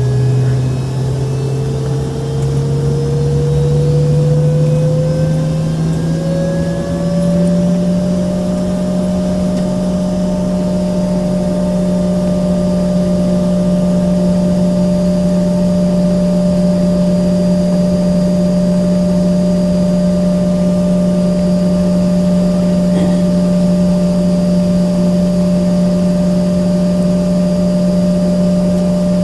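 Embraer ERJ-135's Rolls-Royce AE 3007 turbofan engine, heard from inside the cabin, spooling up with its whine rising in pitch over the first several seconds and then holding steady.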